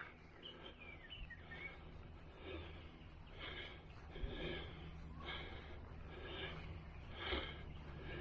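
A walking hiker breathing heavily, with soft breaths coming about once a second.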